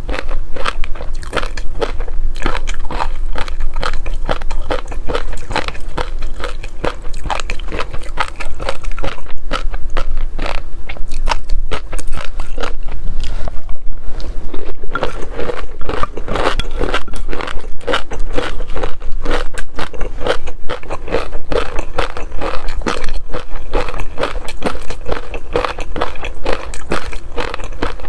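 Close-miked eating sounds of someone chewing shrimp: a dense, continuous run of crisp crunches and chewing, with a brief lull about halfway through.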